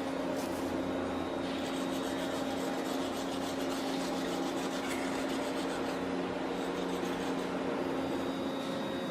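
A power tool running steadily with a continuous rasping, scraping sound of abrasive work.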